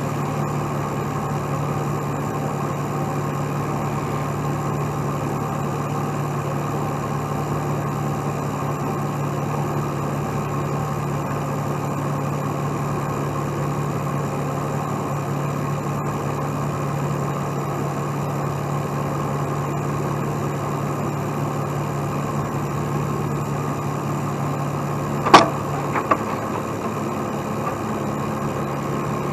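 Heavy truck engine running steadily at idle, with one sharp knock about 25 seconds in, after which the engine note shifts slightly.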